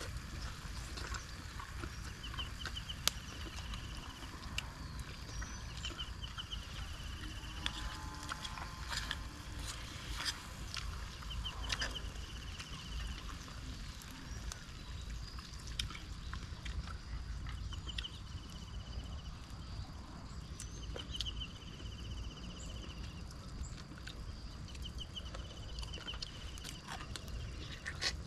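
Outdoor forest ambience: a short, high trilling animal call repeats every few seconds, with scattered sharp clicks and knocks and a low rumble underneath.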